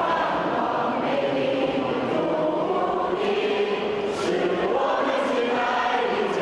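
A large crowd singing a patriotic song together in unison, many voices holding long notes.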